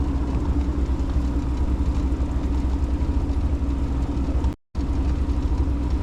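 Motorboat engine running steadily under way, a constant low drone. The sound cuts out completely for a moment about two-thirds of the way through.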